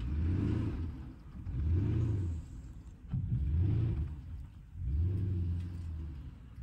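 Porsche Cayenne 4.5S V8 engine revving up and dropping back four times, each surge about a second long, as the SUV climbs a grassy slope. Heard from outside the vehicle.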